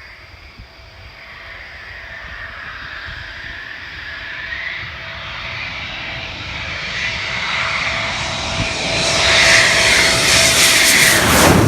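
Military jet aircraft approaching and passing close by, its engine noise with a steady whine growing steadily louder to a peak near the end, then the pitch dropping sharply as it goes past.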